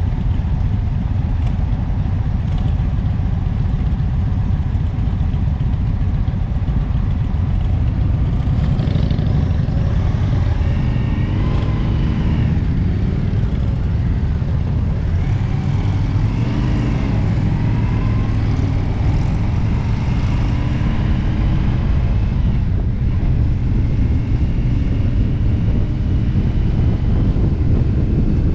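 Indian motorcycle engine running at road speed during a ride, its pitch rising and falling a few times through the middle as the throttle changes.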